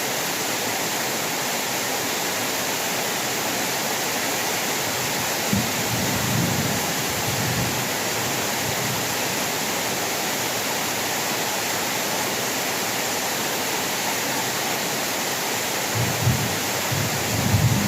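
Heavy rain falling in a steady, dense hiss, with two brief low rumbles of thunder, one about six seconds in and another near the end.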